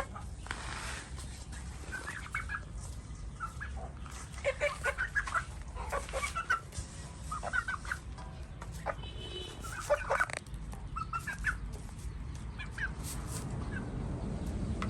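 Chickens clucking: many short, separate calls scattered throughout.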